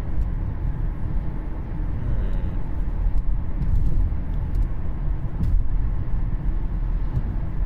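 Steady low rumble of road and drivetrain noise inside the cabin of a 2013 Cadillac CTS 3.0 RWD while driving, with a few faint ticks.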